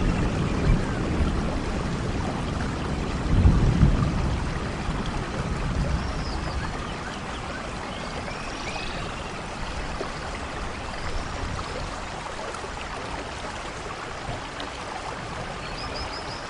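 Steady rainfall hissing evenly, with a low rumble that swells briefly about three and a half seconds in and then eases off.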